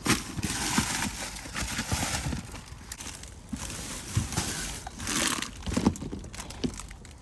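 Rummaging through trash in a dumpster: irregular knocks and clatters as items are moved, with rustling of bags and packaging.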